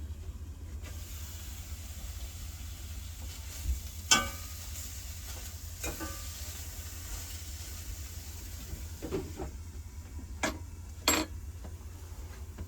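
Steady sizzling of food frying in a pan over a low steady hum, with a few sharp clinks or knocks. The loudest clink comes about four seconds in and the others come near the end.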